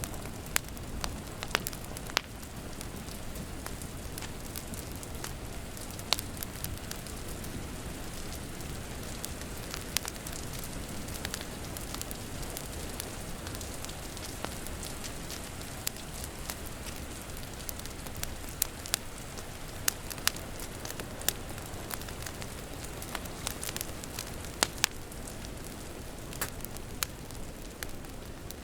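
Wood fire crackling, with frequent sharp pops and snaps at irregular intervals, over the steady hiss of rain.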